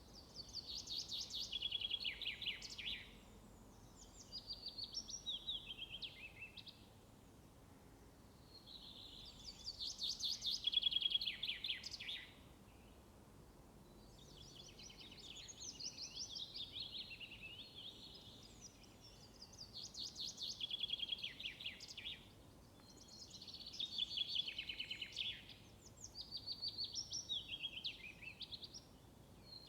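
A songbird singing, repeating a fast trilled phrase every three to four seconds, each phrase falling in pitch toward its end, over a faint steady background hiss.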